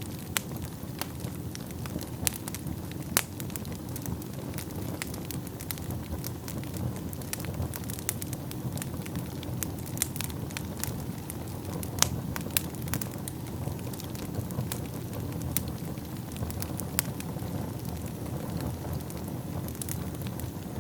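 Wood fire burning in a fireplace: a steady low rush of flames with frequent sharp crackles and pops, two of them louder than the rest, about three seconds in and about twelve seconds in.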